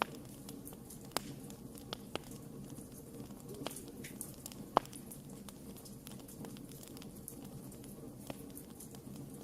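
Wood campfire burning with a steady low rush of flames and scattered sharp crackles and pops, the loudest pop about five seconds in.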